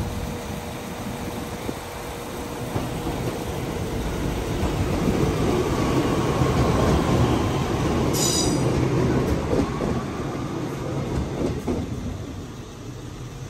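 A train passing close by. Its rumble builds to a peak around the middle and then fades, with a brief high squeal from the wheels about eight seconds in.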